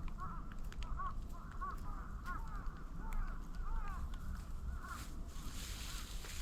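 Open fire of moso bamboo burning with a low rumble and scattered crackles, while a bird calls over and over in short notes. A hiss swells near the end.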